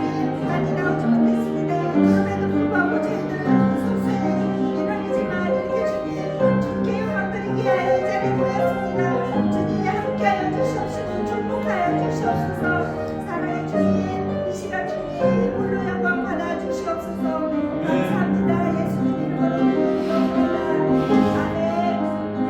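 Slow, sustained instrumental music with held piano-like chords, under the mingled voices of a congregation praying aloud all at once (Korean tongseong prayer).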